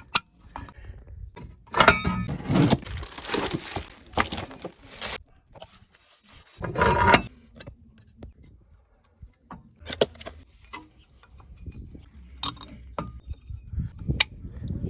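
Metal clinks, knocks and rattles of tools and brake parts being handled during a brake job, with a longer burst of rattling and scraping about two seconds in and a shorter one near the middle.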